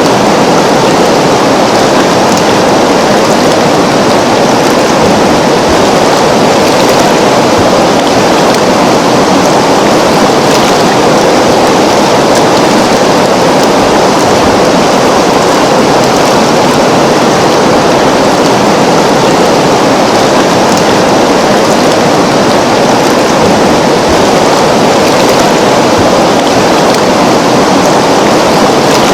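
Flowing river water, a steady, unbroken rush of water noise.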